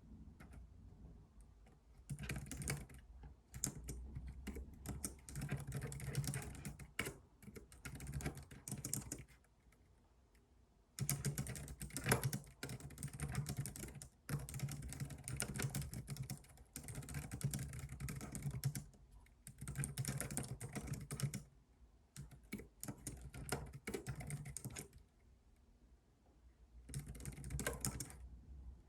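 Typing on a computer keyboard: runs of quick keystrokes lasting several seconds, broken by brief pauses about a third of the way in, just after two-thirds, and near the end.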